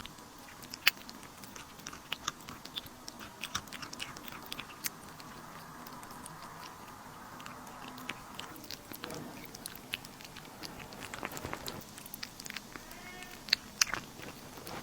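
A pet chewing food, with irregular sharp crunches and clicks.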